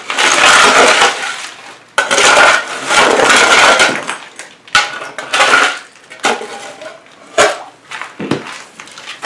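A digging tool scraping and scooping through wet gravel and mud in a broken concrete floor: three long scraping strokes, followed by a couple of sharp knocks against stone or concrete.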